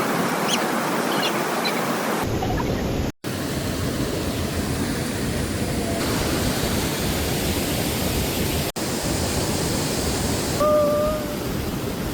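Steady rushing water noise in several short clips, broken by abrupt cuts, with a short wavering tone near the end.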